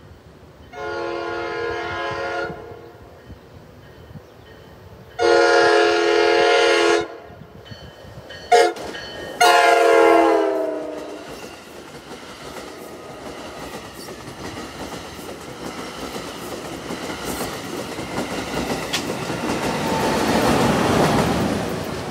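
NJ Transit Multilevel cab control car's horn sounding the grade-crossing signal (long, long, short, long), the last blast dropping in pitch as the cab passes. The double-deck coaches then roll past with clickety-clack, building to the loudest point as the ALP-46A electric locomotive pushing at the rear goes by near the end.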